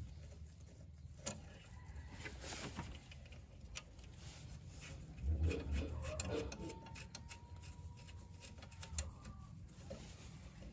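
Rubbing and scraping with scattered light clicks and knocks, with a brief louder cluster of knocks about halfway through and a faint thin tone near the end.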